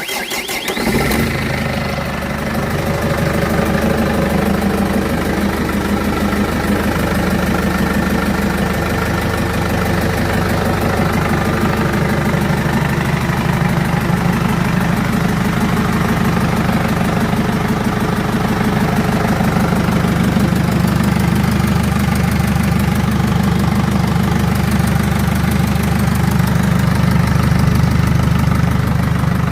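Volvo Penta D4 four-cylinder marine diesel engine just after starting: it settles within the first second or two, then idles steadily.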